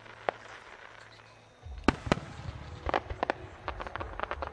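Aerial firework shells bursting: a single sharp bang, then after a pause a low rumble with two loud booms about two seconds in, followed by a quick run of bangs near the end.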